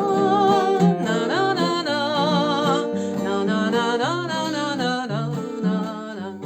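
Instrumental break of a song: a wordless "na-na-na" vocal melody with vibrato over acoustic guitar accompaniment.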